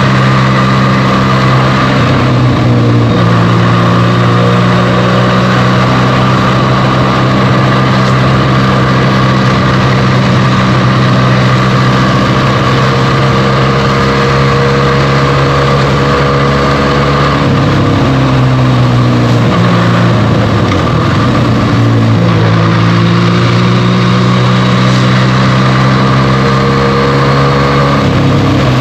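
Benelli TNT 300's twin-cylinder engine running through its stock exhaust at steady riding revs. A few times the pitch dips and then climbs again as the revs change.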